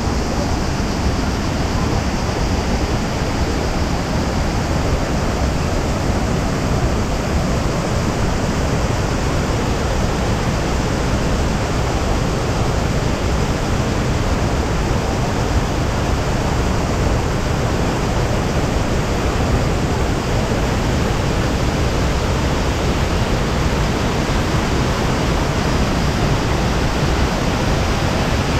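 Waterfall rushing: a loud, steady, even roar of falling water with no breaks.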